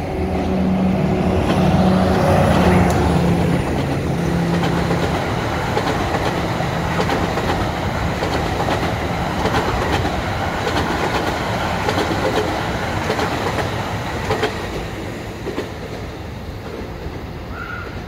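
EXO commuter train of bilevel coaches passing, a steady rumble with the wheels clicking over rail joints. It eases off over the last few seconds.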